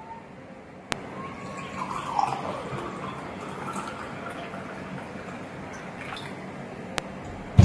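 Water being poured and dripping, with a few sharp clicks of kitchenware. A single loud thump comes near the end.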